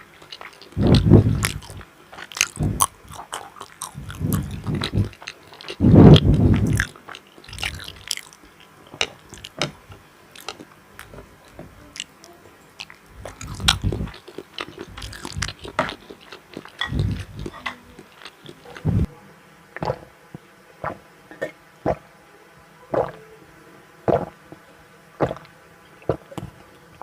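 Close-miked eating: bites and chewing of tokbokki rice cakes and cheese sticks, with several loud, heavy chews in the first seven seconds, then softer mouth clicks and smacks.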